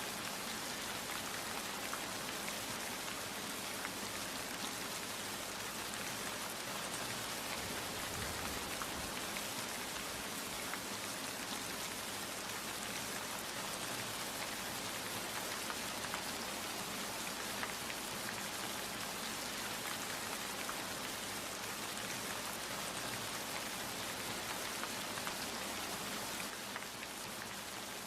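Steady rain falling, an even hiss with many fine individual drop ticks, a little quieter near the end.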